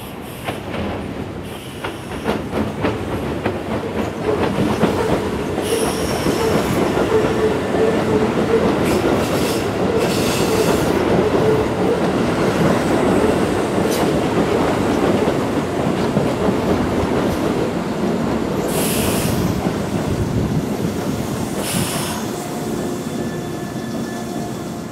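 Electric commuter train passing close by, its wheels clicking over the track, the noise building up over a few seconds, staying loud and then fading near the end. Brief high wheel squeals come a few times as the cars go over the points.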